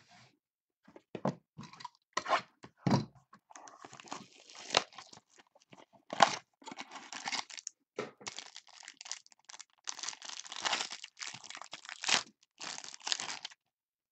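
Plastic or foil trading-card pack wrapper being torn open and crinkled by hand, a run of irregular crackles and rips.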